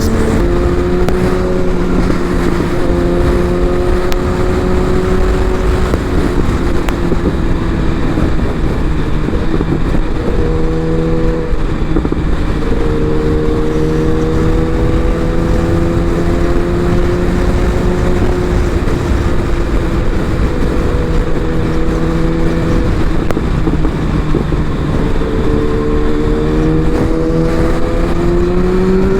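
Sport-bike engine running at a steady highway cruise, heard from the rider's mic with wind noise. Its pitch wavers slightly, changes briefly about ten seconds in, and climbs near the end as the bike speeds up.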